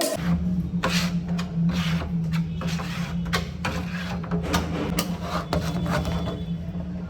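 Repeated abrasive rubbing strokes on wood, over a steady low hum.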